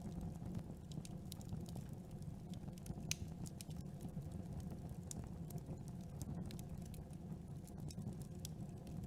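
Campfire burning: a steady low rumble with scattered sharp crackles and pops from the burning wood, one louder pop about three seconds in.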